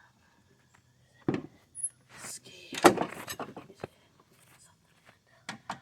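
Metal knocks, a scraping clatter and a few sharp clicks from working on a lawn mower: a thump about a second in, a longer rattling scrape in the middle, and two quick clicks near the end.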